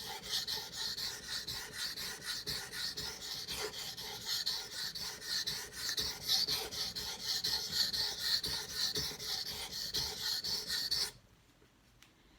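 Knife blade being stroked back and forth over a wet whetstone, a quick, even run of gritty scraping strokes that stops abruptly near the end.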